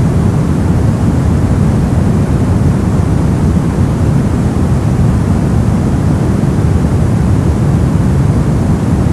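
Steady brown noise: an even, deep rumbling hiss, strongest in the bass and fading toward the highs, with no changes or events.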